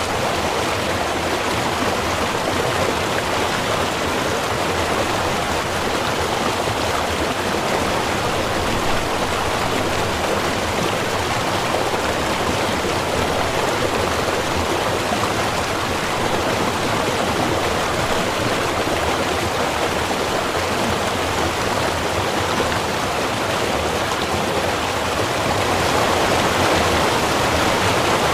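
A small river or stream running, a steady rushing of water that swells slightly near the end.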